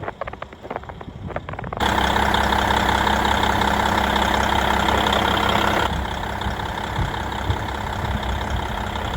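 A few light clicks, then about two seconds in a diesel railcar's engine running steadily, easing slightly in level about six seconds in.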